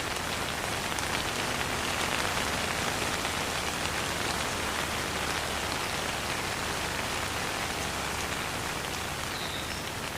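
Steady rain falling on surfaces, an even hiss of many small drops pattering, with no thunder.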